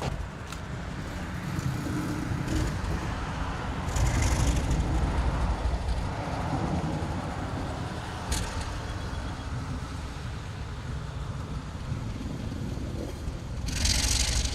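Steady low vehicle rumble, with a few faint clicks, a brief hiss about four seconds in and a louder hiss near the end.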